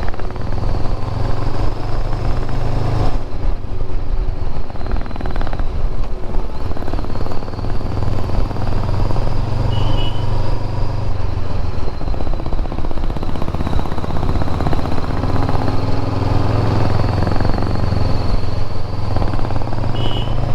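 Motorcycle engine running steadily while riding, a continuous low hum under even road and wind noise.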